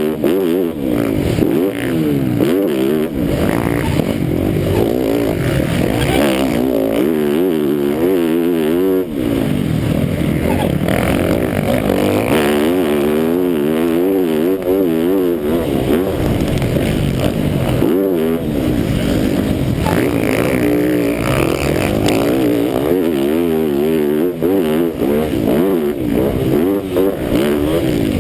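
Motocross bike engine at race pace, its pitch rising and falling over and over as the throttle is worked through the corners and jumps of a sand track, with clatter and rushing noise throughout.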